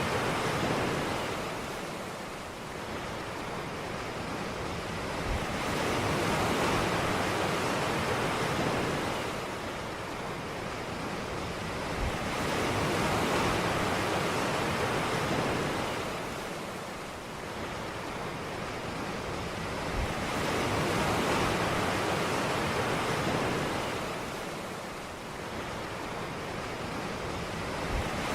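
Ocean waves breaking on a beach, a steady wash of surf that swells and recedes about every seven to eight seconds.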